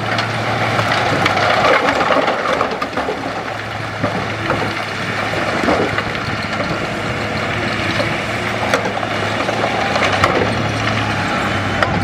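Bulldozer's diesel engine running steadily while rock and earth crunch and crackle under the blade, with scattered sharp cracks.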